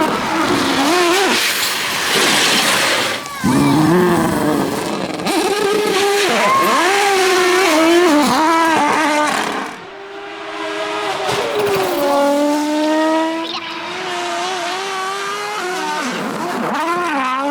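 Rally car engines revving hard, the pitch climbing and dropping again and again through gear changes and lifts, with the rasp of tyres and gravel mixed in.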